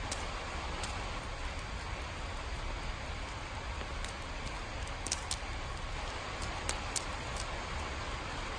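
Steady rain falling, with a few sharp drip ticks scattered through it.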